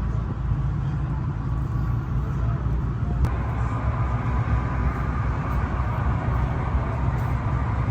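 A vehicle engine running steadily, a continuous low rumble, with a single sharp click about three seconds in.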